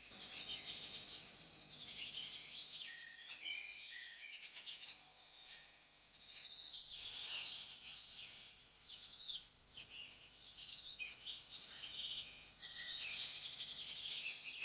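Several birds chirping and calling in quick, overlapping short notes, with no pause.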